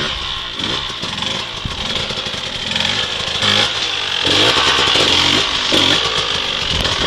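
Dirt bike engine revving up and down repeatedly, its pitch rising and falling, getting louder about four seconds in.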